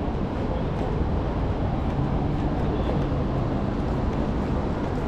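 Steady city street ambience, a dense low rumble of traffic and street noise with no single sound standing out.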